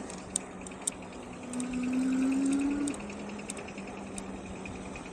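Engwe Engine Pro e-bike's 750 W hub motor whining steadily under way. The pitch rises and grows louder for about a second and a half near the middle, over a fast, even ticking and a couple of sharp clicks early on.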